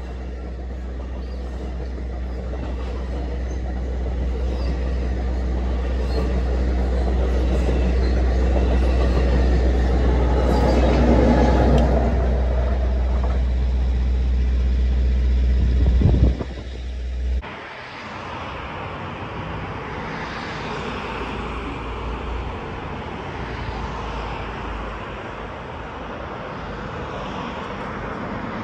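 NJ Transit Multilevel commuter train passing at a grade crossing: a steady low rumble of the cars that builds to its loudest about eleven seconds in. It breaks off abruptly about seventeen seconds in to a quieter, steady outdoor noise.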